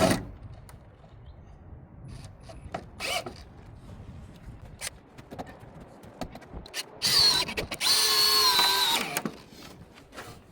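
Scattered knocks and clicks of parts being handled, then a power drill runs for about two seconds with a steady whine near the end.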